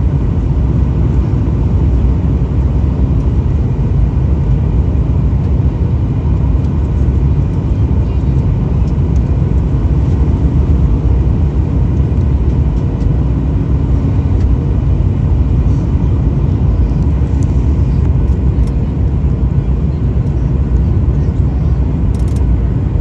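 Steady low rumble of an airliner's cabin, engine and airflow noise with a faint steady hum, unchanging throughout.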